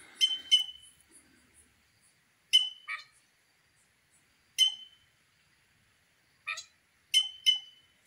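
Birds giving short, sharp calls, mostly in quick pairs, every two seconds or so.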